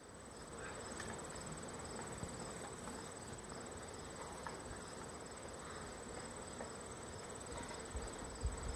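Steady insect sound: a high, evenly pulsing trill over a faint hiss of buzzing. Low rumbling starts near the end.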